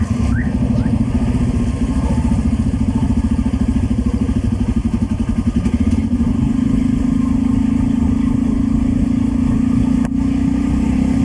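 Hero XPulse's single-cylinder motorcycle engine running while riding, a steady fast-pulsing low drone that settles into a smoother, even tone about halfway through.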